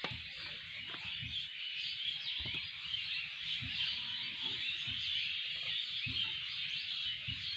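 Morning chorus of many small birds chirping and twittering together in a dense, unbroken wash, with a few faint low knocks underneath.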